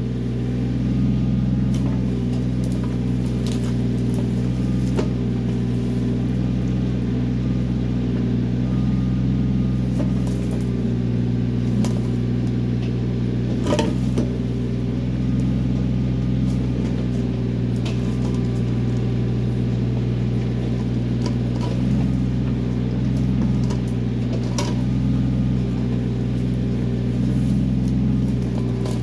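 Kioti CK20S compact tractor's diesel engine running steadily during backhoe work, with a few sharp clicks and knocks over it.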